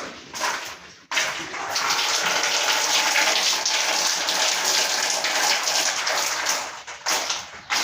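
Water gushing steadily: a few short splashes, then a continuous rush of running water from about a second in that breaks up into short splashes near the end.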